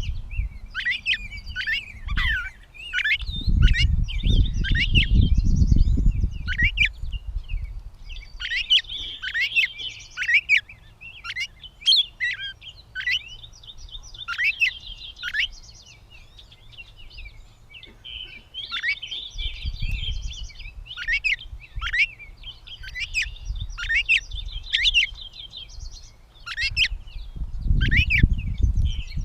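Gray catbird singing: a long run of short, varied squeaky and scratchy notes, some sweeping steeply down in pitch, delivered in bursts with short pauses between them. A low rumble comes and goes underneath.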